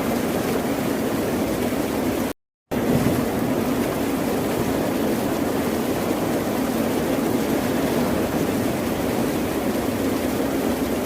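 Steady roar of ocean surf, a continuous rushing wash with no single breaking wave standing out. It cuts out to total silence for a moment about two and a half seconds in, then resumes unchanged.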